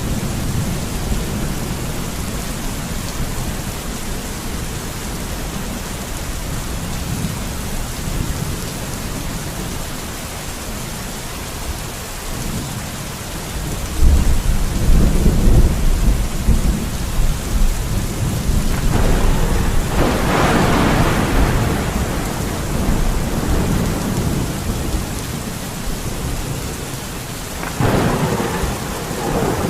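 Steady rain falling, with low rolling thunder: a rumble breaks in suddenly about halfway through and swells again a few seconds later, and another roll starts near the end.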